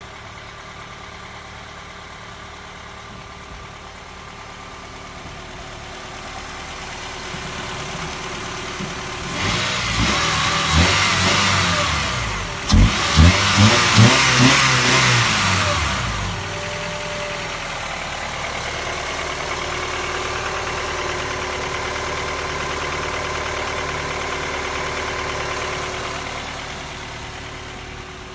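Honda Odyssey RA6's 2.3-litre four-cylinder engine idling, then revved up and down several times in quick blips, before settling back to idle.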